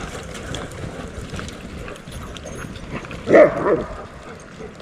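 A dog gives one short yelp a little past three seconds in, over a steady crunch of footsteps and paws on the trail.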